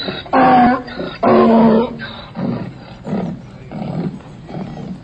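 Donkey braying: two loud, drawn-out pitched cries in the first two seconds, then a run of shorter, quieter, lower calls about every half second as the bray tails off.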